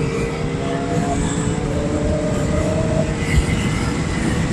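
Motorcycle engine running at speed, its note rising slowly, with heavy wind rumble on the microphone.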